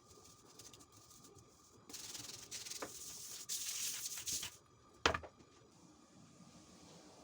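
Rubbing noise of a kitchen surface being scrubbed for a couple of seconds, then a single sharp knock, like an object set down on the counter.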